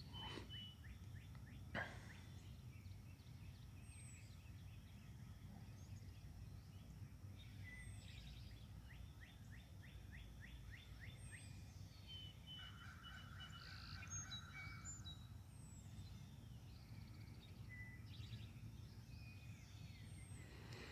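Faint birdsong from several birds: scattered chirps, short whistles and a few fast trills, over a steady low background rumble.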